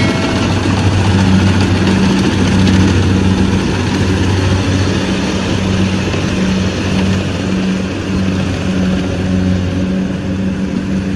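Kubota DC68G combine harvester's diesel engine running steadily at full speed, a loud, constant drone.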